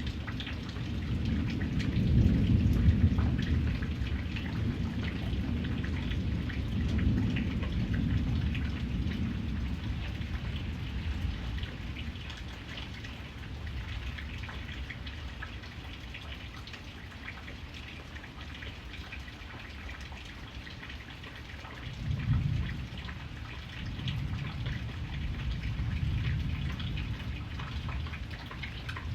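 Steady rain falling, with many fine drops ticking, and low rumbles of thunder rolling under it. The loudest roll comes about two seconds in, another around seven seconds, and a short one a little past twenty seconds.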